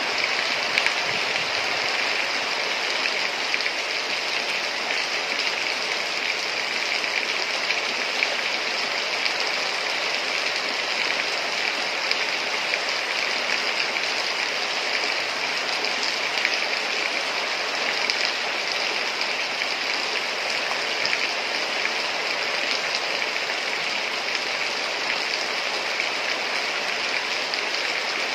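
Heavy rain falling steadily, a dense even hiss with fine pattering.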